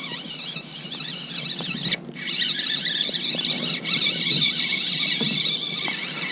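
Fishing reel whirring with a continuous, fluttering high whine, broken off briefly about two seconds in, over faint low knocks.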